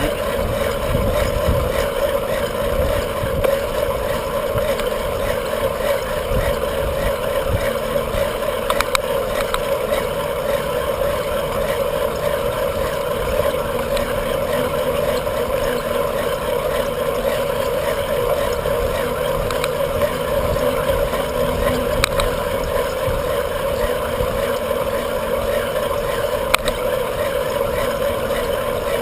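Steady wind and road noise of a bicycle being ridden along a busy street, with a constant mid-pitched hum and low rumble, and a few faint clicks.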